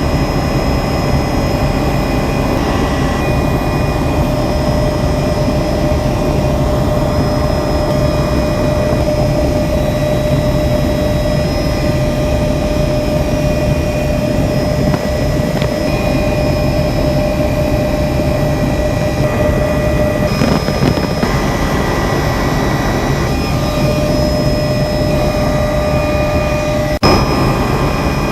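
Helicopter in flight, heard from inside the cabin: a steady whine over a loud low rumble. A short click comes near the end.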